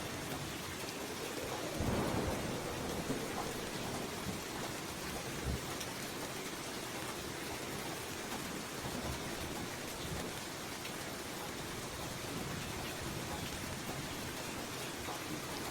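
Steady rain falling as an even hiss, with a short low rumble of thunder about two seconds in.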